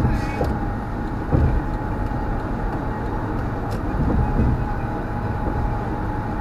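Steady road and engine rumble of a car driving at speed, heard from inside the cabin, with a small knock about a second and a half in.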